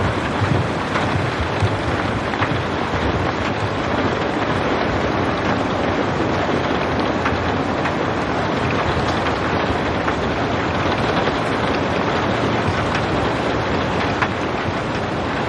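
Steady rain falling without thunder: a dense, even hiss with scattered faint drop ticks.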